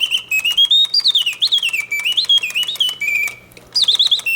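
Reuge mechanical singing bird cage singing in full voice: its bellows-driven whistle makes warbling chirps that climb in steps and swoop down again. There is a brief pause a little after three seconds, then the song resumes. The mechanism is running in continuous mode and working properly.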